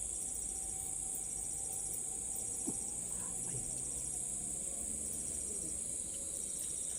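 Steady high-pitched chorus of insects such as crickets, with a short rapid pulsed trill near the start and again near the end.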